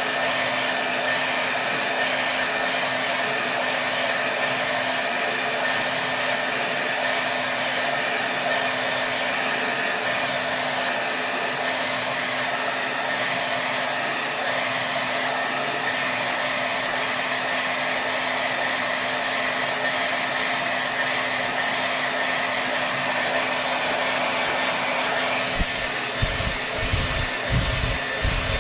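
Hair dryer blowing at maximum setting: a steady, dense rush of air with a constant motor hum under it. Near the end, irregular low rumbling pulses join in.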